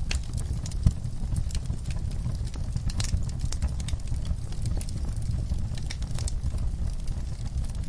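Wood fire burning in a fireplace: a steady low rumble of flames with frequent irregular crackles and pops from the burning logs, one sharper pop about a second in.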